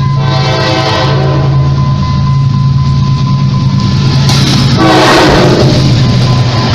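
Train with a steady low engine drone, sounding its horn at the start and again, louder, about five seconds in.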